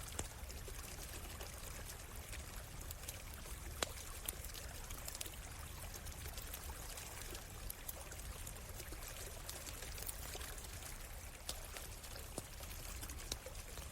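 Flowing stream water running steadily, with a wood campfire crackling over it in scattered sharp pops, the loudest pop a little under four seconds in.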